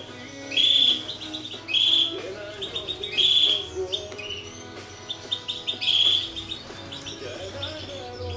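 A small songbird chirping: four loud, short, high calls about a second and a half apart, with softer twittering between them, over quiet music.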